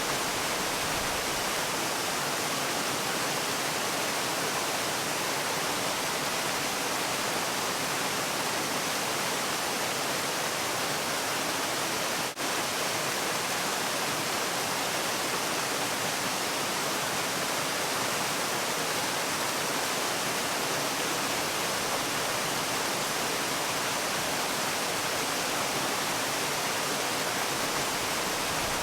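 Waterfall: a steady, even rush of falling water, with one momentary dip in level about twelve seconds in.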